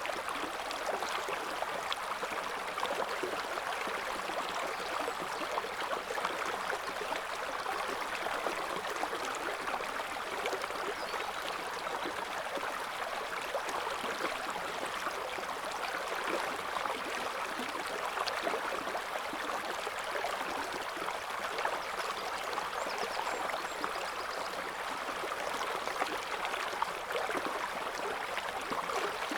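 Shallow river flowing steadily over stones: a constant babbling and splashing of running water.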